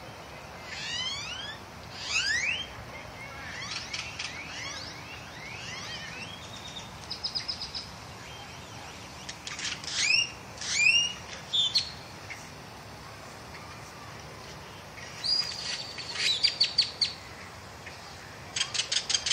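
Birds chirping and singing in bouts of quick sweeping calls, short trills and fast runs of repeated notes, over a steady low background hum. The calls fall silent for a few seconds in the middle and return with a rapid run of notes near the end.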